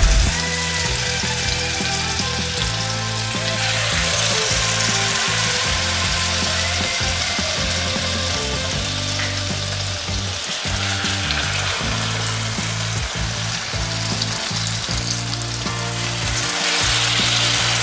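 Custard-soaked challah slices frying in hot oil and butter in a cast-iron skillet, sizzling steadily, the sizzle that shows the oil is hot enough. It swells louder a few times as more slices are laid into the fat.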